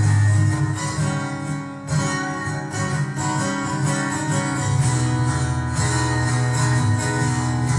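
Acoustic guitar playing an instrumental passage, with strummed and plucked chords over a strong low bass line.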